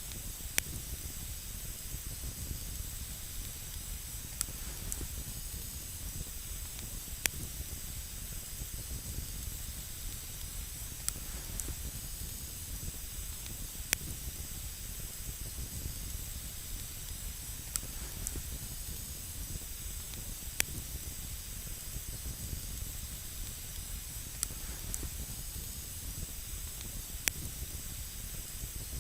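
Wood campfire burning with a steady hiss, and a sharp pop from the burning wood every few seconds.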